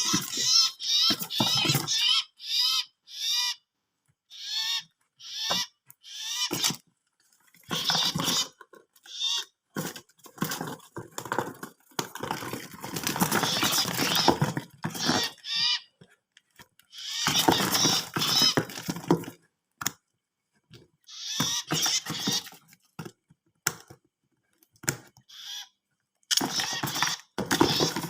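Small wild-caught birds in a cardboard box chirping in short, quickly repeated calls, most of them in the first few seconds, with bursts of rustling and scraping through the rest.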